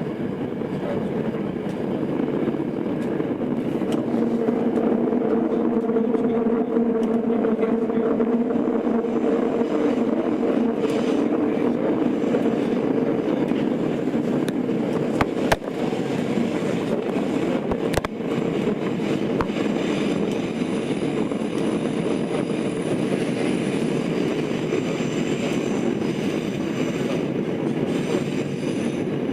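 Tokyo Metro 02 series subway train running, heard from inside the car: a steady rumble of wheels on rail, with a humming tone over the first third and two sharp clicks around the middle.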